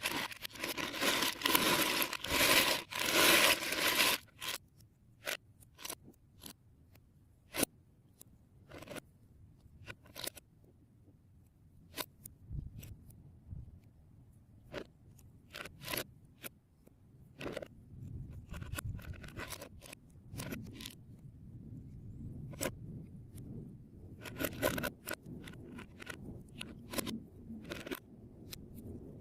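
Plastic Lego Technic parts being handled: loose pieces rattling and scraping together for the first four seconds, then scattered sharp clicks and snaps of bricks, beams and pins being fitted or pulled apart.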